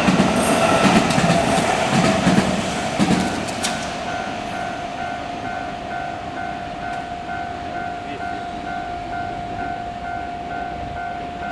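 A train running past over the rails for the first few seconds, with clicking wheels on rail joints, then dying away. Through it and after it, the level crossing's electronic warning alarm rings on in a steady pulse, about twice a second.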